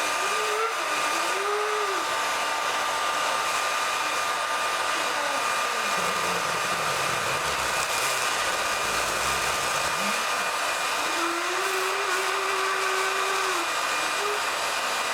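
Hair dryer blowing steadily: a rushing hiss of air with a constant high whine, unchanged throughout.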